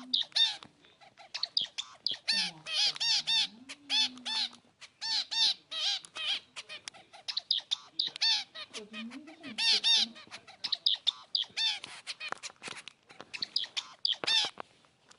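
Zebra finch giving repeated short, nasal, honking calls in quick clusters. They are mixed with sharp clicks and tapping from a budgerigar perched on the camera, a clattering the uploader calls noisy.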